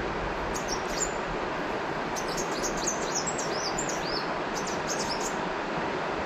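River water flowing steadily, with small birds chirping over it in quick runs of short high notes, in two spells, the longer one from about two seconds in.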